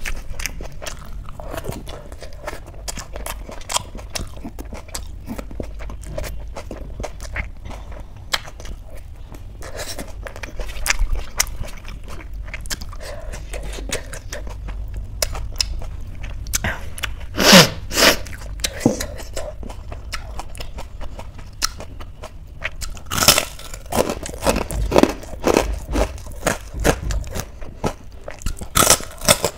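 Close-miked chewing and crunching of a crisp fried snack: soft chewing and mouth clicks at first, then loud crisp crunches about 17 seconds in and again in a run of bites over the last six seconds.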